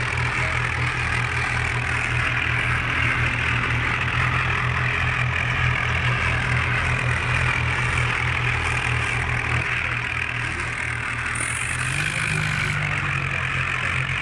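John Deere 5055 tractor's diesel engine running steadily with a low, even pulse, its pitch rising slightly near the end.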